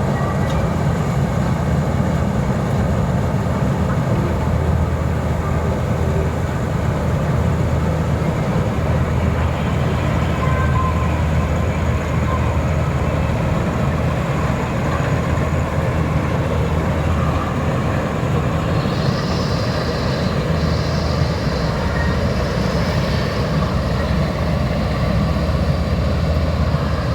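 Combine harvester's diesel engine running steadily under load while cutting paddy, a continuous low drone, with a higher whine coming in briefly after about nineteen seconds.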